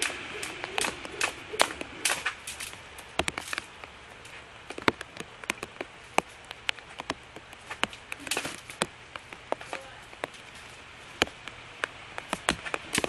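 A series of sharp taps and slaps, several a second, fairly even at first and then more scattered.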